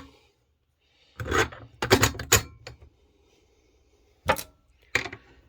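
Clattering knocks and clinks from objects being handled. A quick run of strikes comes about a second in, then two single knocks near the end.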